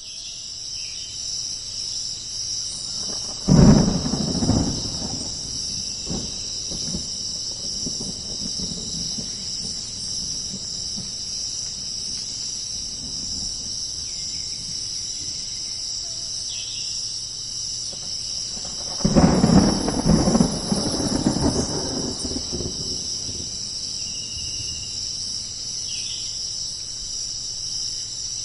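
Jungle thunderstorm ambience: a steady, high-pitched chorus of insects such as crickets trilling over rain, broken by thunder twice: a sudden crack with a short rumble about four seconds in, and a longer rolling rumble of about three seconds past the middle.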